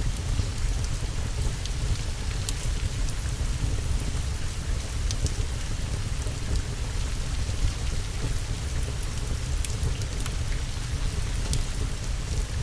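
Steady rain with a continuous low rumble and scattered sharp crackles, a mixed rain-and-fireplace ambience.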